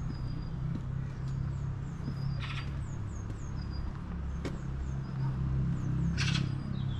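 Small birds chirping in short groups of high, quickly falling notes, over a steady low rumble. Two brief harsh rasping sounds come about two and a half and six seconds in.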